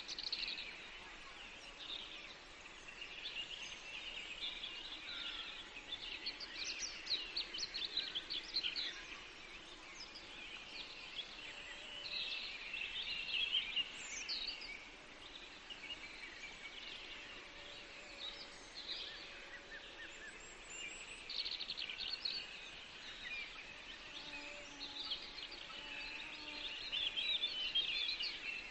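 Several songbirds singing in a forest, with overlapping chirps and trills in quick phrases, over a steady background hiss.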